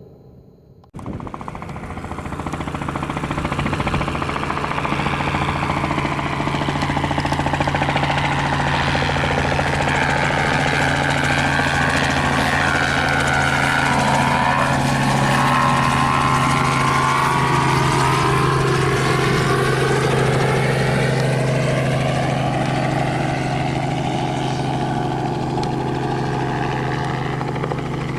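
Robinson R44 helicopter in flight, its rotor and engine noise starting abruptly about a second in, building over the next few seconds, then holding steady and loud.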